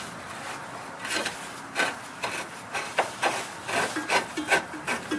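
Floor jack handle being pumped in short strokes, a dry scraping click at each stroke about twice a second, raising the Jeep Wrangler's rear axle a little at a time.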